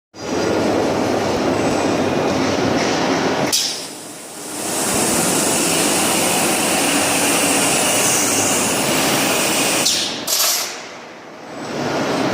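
Steady, loud machinery noise, with sudden breaks and dips about three and a half seconds in and again near ten seconds.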